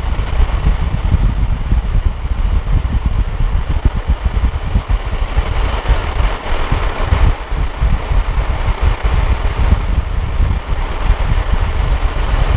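2013 Hyundai Sonata's engine idling steadily, with a continuous rush of fan air from the climate system running.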